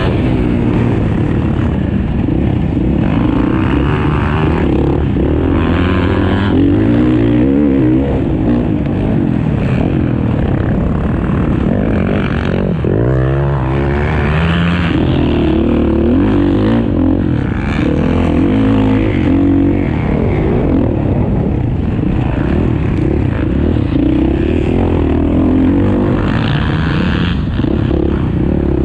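Several motocross bikes racing, their engines overlapping and revving up and down repeatedly through the gears.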